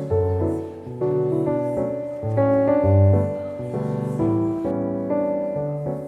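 Background piano music, with notes and chords moving over a changing bass line.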